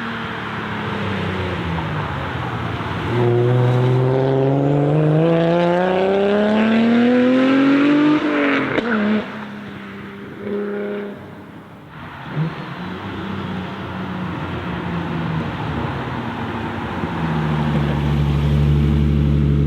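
Nissan Skyline R33's built, turbocharged RB25DET straight-six accelerating hard, its note rising steadily for several seconds, then dropping sharply as the throttle is lifted. A short rev blip and a single sharp pop follow. Near the end a steady, loud engine note sets in.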